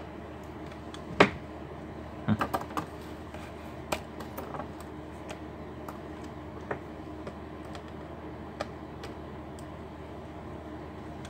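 Small clicks and taps of hand tools working on a laptop's seized hinge and plastic case: one sharp click about a second in, a quick cluster of clicks about two seconds in, then scattered lighter ticks, over a steady low hum.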